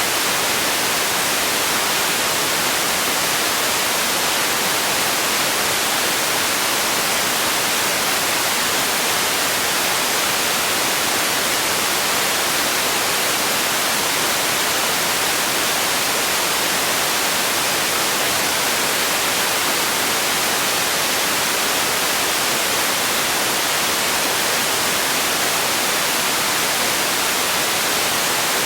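Steady sleep noise: an even, unchanging hiss that is brightest in the high end.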